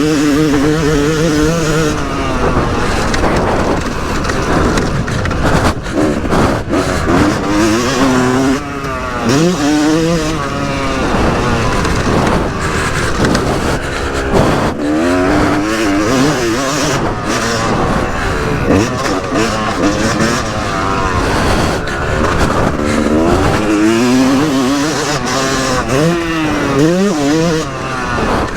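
Yamaha YZ250 single-cylinder two-stroke motocross engine being ridden hard, its pitch climbing and dropping back again and again as the throttle is opened and closed through the gears, over a steady rushing noise.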